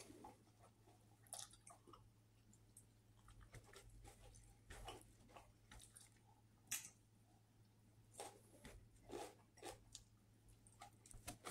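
Faint chewing of a sub sandwich: soft mouth sounds with scattered short crunches and clicks as he bites and chews, over a low steady hum.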